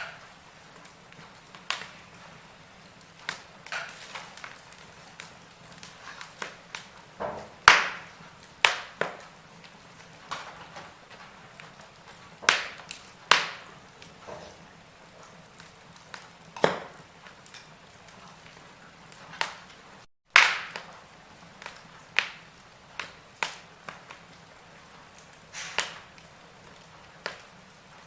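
Wood fire crackling in a fireplace: irregular sharp pops and snaps, some much louder than others, over a faint steady hiss.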